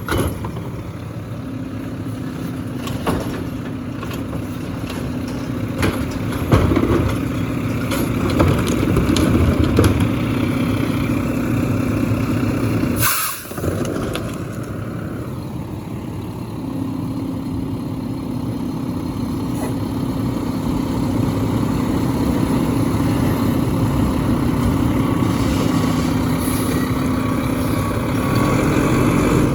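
Garbage truck engine running steadily, with scattered knocks and clanks. The sound breaks off briefly about 13 seconds in.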